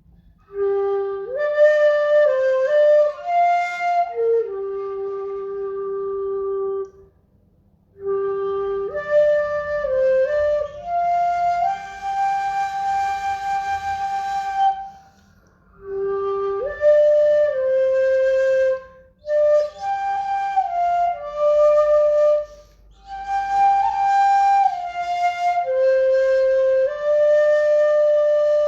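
Vietnamese bamboo flute (sáo trúc) playing a slow, calm melody in phrases, with long held notes and short pauses for breath between phrases.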